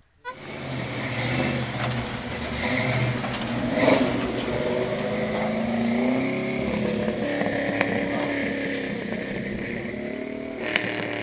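Off-road competition truck's engine revving hard under load, its pitch climbing and falling as the throttle is worked, with a few sharp clicks near the end.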